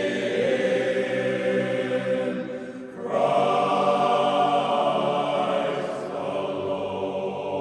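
Barbershop chorus singing a cappella in close harmony, holding long chords. The sound dips briefly just before three seconds in, then a new chord begins.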